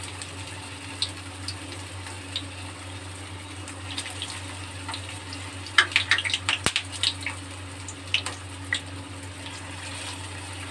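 Potato patties (aloo tikki) shallow-frying in hot oil in a pan, a steady sizzle. Bursts of louder crackling and spattering come as more patties are laid into the oil, the loudest about six seconds in.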